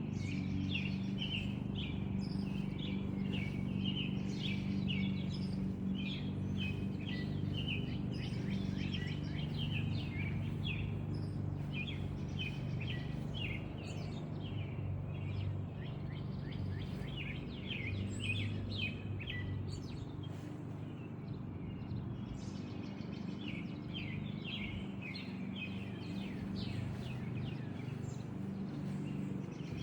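Small birds chirping in quick trilled bursts that come and go, over a steady low hum.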